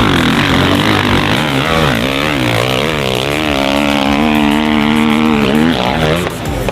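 Dirt bike engine revving hard, its pitch rising and falling repeatedly as the throttle works, then holding a steadier high rev for a couple of seconds before dropping away near the end.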